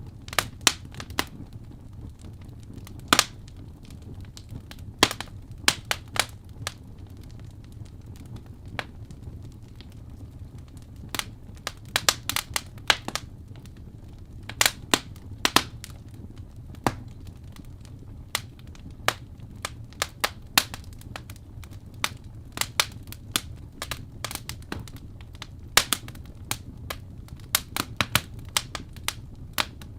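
Fireplace crackling: irregular sharp pops and snaps, scattered unevenly, over a low steady rumble.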